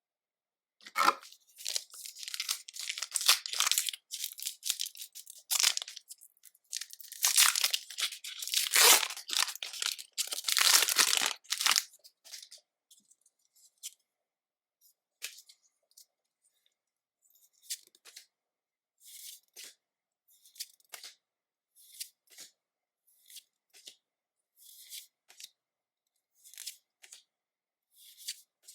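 Pokémon trading card booster pack wrappers being torn open and crinkled for about eleven seconds. Then a string of short, light ticks as the contents are handled.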